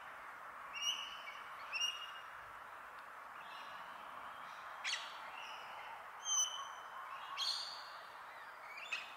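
Male Australian king parrot calling: about six short, high-pitched whistled notes, spaced a second or more apart, over a steady faint hiss.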